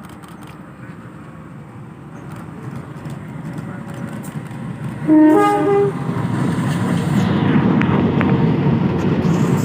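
A train approaching with a rumble that grows steadily louder, sounding a short horn blast about five seconds in, then running close by with a loud, sustained rumble.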